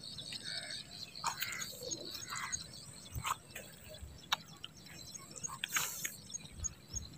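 Birds chirping and calling here and there, with a few short clicks and soft low thumps in between.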